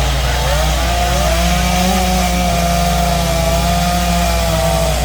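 Chainsaw running steadily as it carves wood, its pitch wavering up and down as the cut loads and frees the engine.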